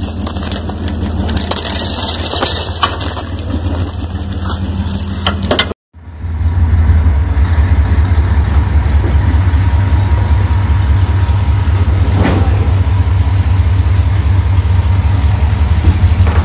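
Vehicle engine idling steadily, a low rumble with a few light knocks. The sound drops out for a moment about six seconds in.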